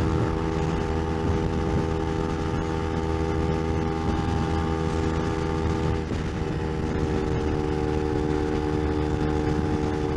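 Kawasaki Ninja 250R's parallel-twin engine running at a steady, high engine speed while cruising, with low wind rumble on the helmet microphone. About six seconds in the engine note dips briefly and settles at a slightly different pitch.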